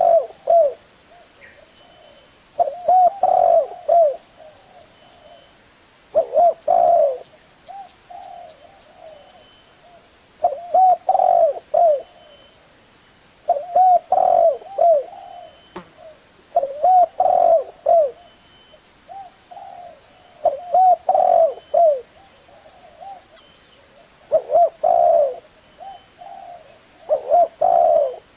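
Spotted dove cooing: a repeated phrase of low coos about every three to four seconds, each starting with a loud burst and trailing off into softer coos.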